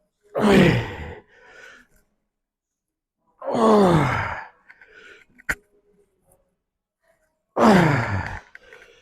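A man's loud groaning sighs of effort, three of them about four seconds apart, each falling steeply in pitch, as he works through a set of repetitions. A single sharp click comes between the second and third.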